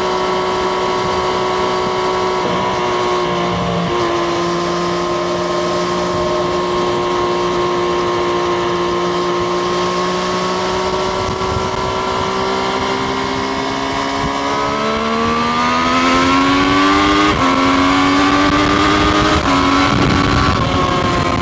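Triumph Street Triple RS 765 cc inline-three engine holding steady revs while cruising, then accelerating after about twelve seconds, the revs climbing through several upshifts with a short dip at each shift.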